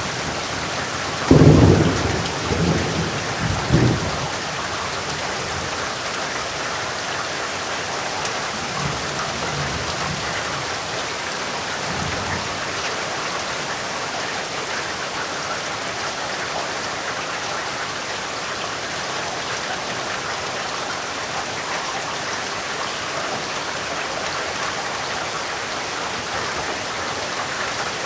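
Steady, heavy rain falling, with a loud clap of thunder about a second in that rumbles on for a couple of seconds. Fainter rolls of thunder follow around the middle.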